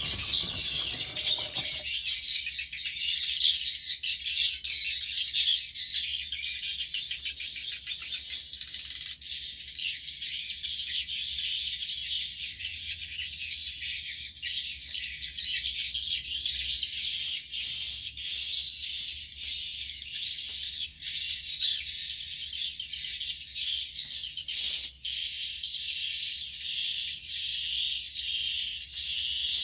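Swiftlets twittering: a dense, unbroken stream of high, rapid chirps and trills from many birds at once.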